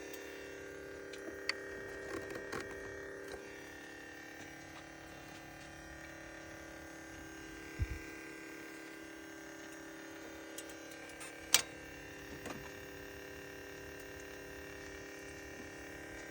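BMW 335i's N54 twin-turbo straight-six running with a steady whine made of several tones, an odd noise that the owner suspects comes from the turbos. A few sharp clicks sound over it, with a low thump about eight seconds in and the loudest click about two-thirds of the way through.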